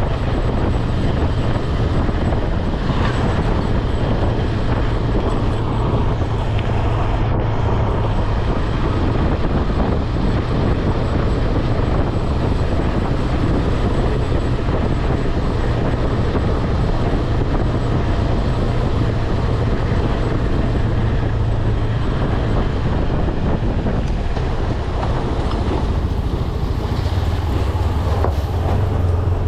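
KTM 250 Adventure's single-cylinder engine running steadily at highway speed, its low drone dropping a little in pitch near the end.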